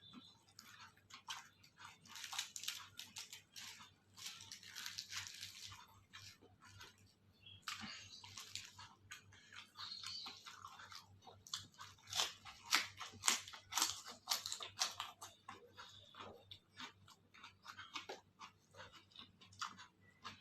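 Close-up chewing and biting of crunchy food, with sharp crunches coming in irregular clusters.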